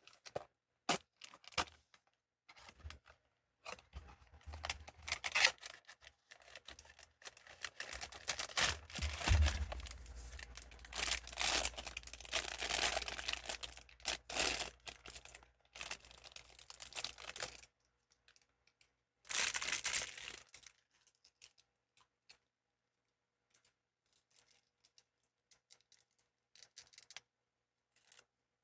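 Blind-box packaging being torn open and crinkled by hand, in a long stretch of tearing and crinkling, with a shorter burst a little later. A few light clicks come before it, and faint taps follow.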